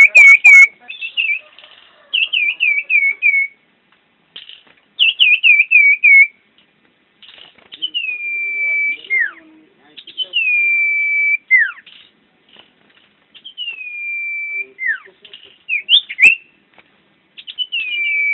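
Common iora (cipoh) singing loud clear whistles. It starts with runs of about five quick down-slurred notes, then shifts to long whistles that slide down, hold steady and end in a sharp falling note.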